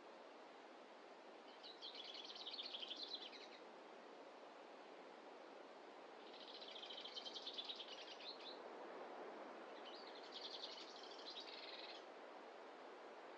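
A small songbird sings three rapid trilled phrases of quickly repeated high notes, each about two seconds long and a few seconds apart. Under it runs a faint, steady hiss of forest ambience.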